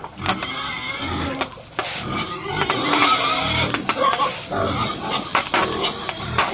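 Several pigs calling over one another, a dense run of overlapping grunts and squeals, with short knocks scattered through.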